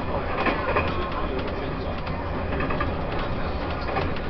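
Inside a passenger coach of a Taiwan Railways E1000 push-pull Tze-Chiang express train on the move: a steady rumble of the wheels on the track over a low hum.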